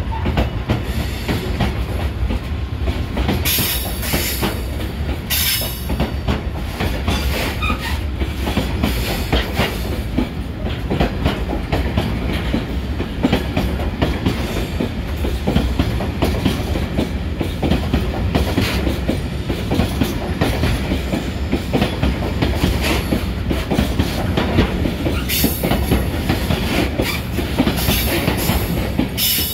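A freight train of Network Rail MLA open box wagons rolling past at a steady pace, wheels clattering continuously over the rail joints with a low rumble underneath. Brief high-pitched bursts come about four and five seconds in and again near the end.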